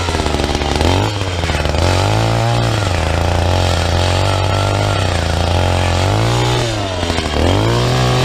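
Gas-powered earth auger engine running hard while drilling a post hole, its speed sagging and recovering several times as the bit loads up in the soil.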